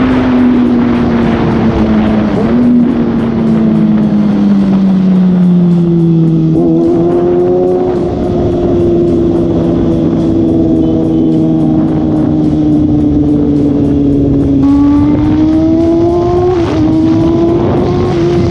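Kawasaki Ninja ZX-6R inline-four with an Austin Racing exhaust running at speed on the road. The engine note sinks for several seconds, steps up and holds a steady cruise, then climbs again near the end with a brief break as a gear changes.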